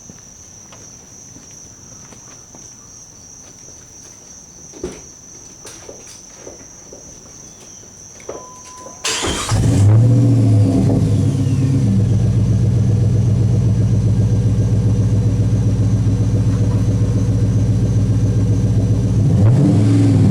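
Crickets chirping steadily for about nine seconds, then a 1999 Jeep Grand Cherokee's 4.7-litre V8 starts and settles into a steady idle, its exhaust note coming through a Flowmaster Super 44 muffler and 3-inch Magnaflow tailpipe. A light blip of revs comes near the end.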